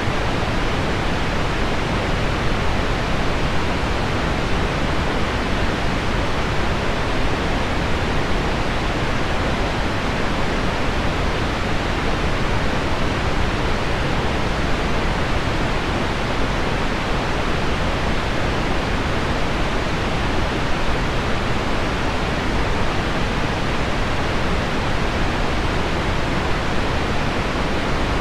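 Heavy rain on window glass blended with deep pink noise: an even, unbroken hiss with no single drops standing out.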